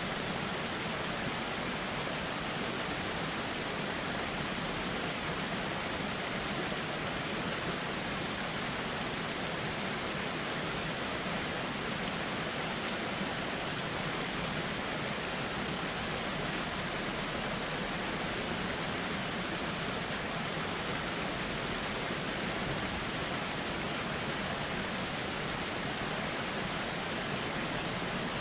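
Steady, even rush of flowing river water, unbroken and without separate splashes or events.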